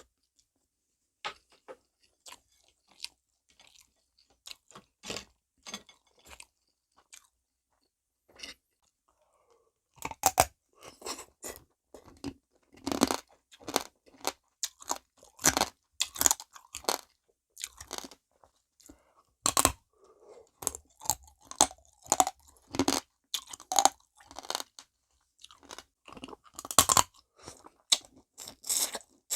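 Close-up chewing and crunching of soy-marinated rock crab (ganjang gejang), the shells cracking between the teeth. For about the first ten seconds there are only scattered soft clicks, then dense, loud crunching sets in.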